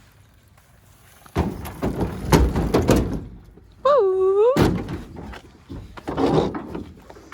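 A run of knocks and thuds, then a short wavering squeal about four seconds in, cut off by one loud thump, with more knocking after.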